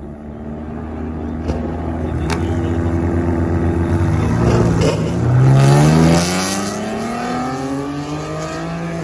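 A red Chevrolet Camaro and a Mini Cooper launching side by side off a drag-strip start line. The engines rev and grow louder, then about five seconds in the cars pull away hard, with the engine pitch climbing steeply as they accelerate down the track.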